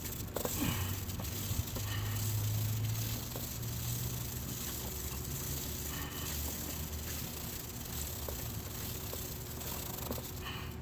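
Brush scrubbing a degreaser-soaked motorcycle chain as the rear wheel is turned: a steady scrubbing hiss with a low hum underneath.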